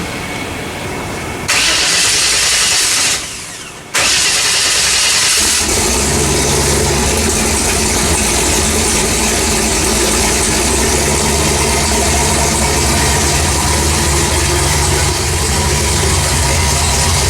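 A car engine starting: a loud rushing noise for a few seconds with a brief dip, then the engine catches about six seconds in and settles into a steady idle.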